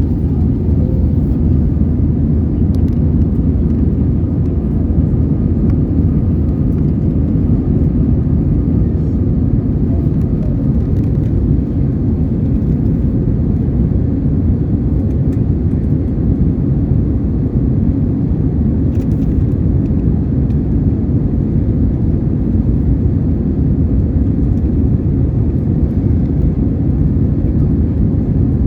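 Steady low rumble inside the cabin of an Airbus A320-232 departing: its IAE V2500 engines and the airflow heard from a window seat.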